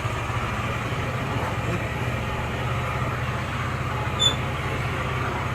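Motorcycle engine idling with a steady, rapid low pulsing. A short high-pitched beep about four seconds in.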